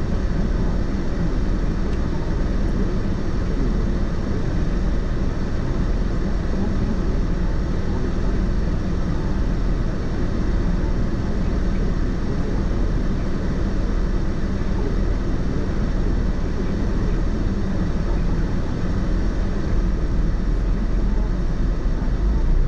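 A car driving along at a steady pace: continuous tyre and engine rumble, heaviest in the low end, growing a little louder near the end.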